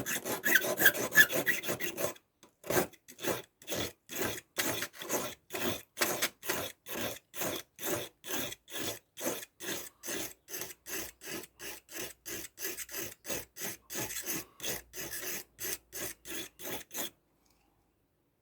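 Victorinox pocketknife blade being rubbed back and forth on a sharpening stone, grinding the blade down. A quick run of scraping, then steady separate strokes at about two and a half a second that stop near the end.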